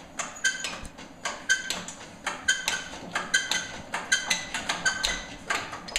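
Old Lister Petter diesel generator engine being turned over slowly by hand on a cold start: uneven clicking and knocking, a few per second, with a short squeak about once a second and no firing. Its cold oil is thick as mud.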